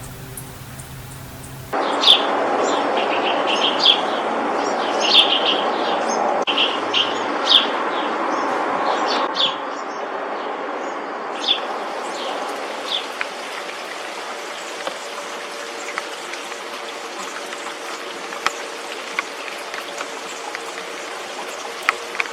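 Bird chirping in quick, short, high notes, several a second for about ten seconds and then only now and then, over a steady rushing hiss.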